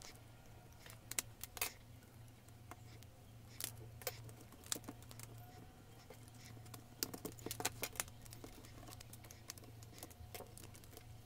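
Faint, scattered small clicks and taps of a cassette deck tape mechanism being taken apart by hand: small plastic and metal parts being handled, over a low steady hum.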